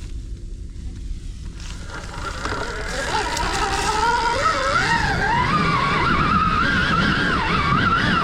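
Stark Varg EX electric dirt bike's motor whining as it pulls away, the pitch rising and wavering with the throttle from about two seconds in, over a low rumble of tyre and wind noise.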